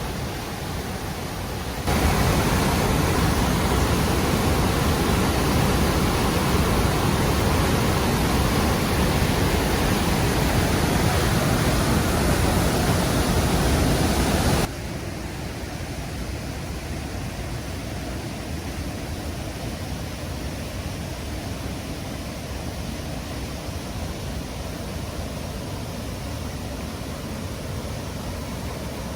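Rushing water of Mushbowl Falls on the Murtle River, a steady even roar. It jumps louder about two seconds in and drops back to a quieter level about halfway through, where the clips change.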